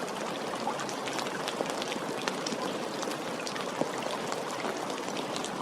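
Steady rain, with many separate drops ticking against a continuous hiss.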